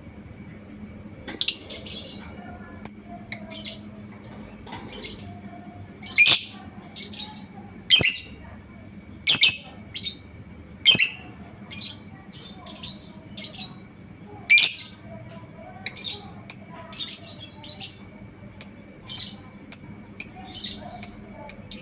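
Lovebird calling: a long series of short, sharp, high-pitched shrieks, roughly one every second, coming quicker in the last few seconds.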